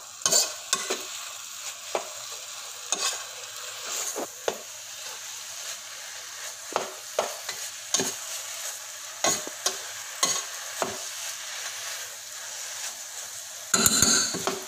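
Minced meat and tomato puree sizzling in a non-stick pot, cooked nearly dry, while a metal spoon stirs and scrapes it, giving repeated short clicks and scrapes against the pot. A louder stretch of scraping comes near the end.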